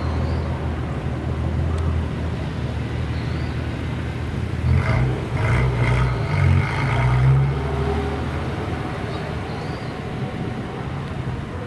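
Classic car's engine running with a low rumble as the car drives past, louder about halfway through and fading toward the end.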